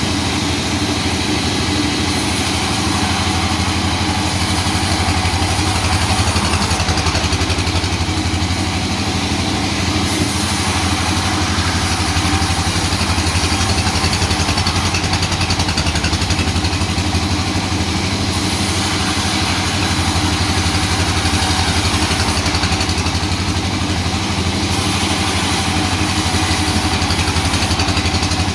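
Sawmill machinery running steadily: a constant engine hum with a wash of mechanical noise over it, unchanging throughout.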